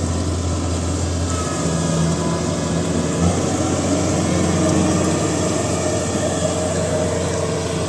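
Kubota DC68G combine harvester's diesel engine running steadily, with a slight shift in its pitch about three seconds in.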